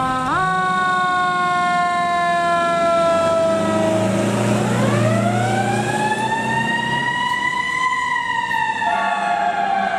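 Fire truck siren wailing: its pitch slides slowly down, then rises in a long sweep to a peak near the end and starts falling again, dropping suddenly just before the end. A truck engine rumbles underneath midway.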